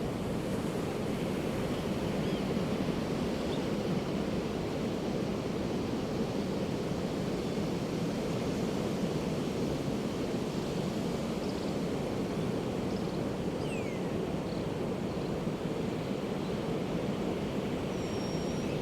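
Pacific surf breaking and washing in a steady, even roar of noise. A few faint seagull calls come through now and then, one sliding down in pitch about fourteen seconds in.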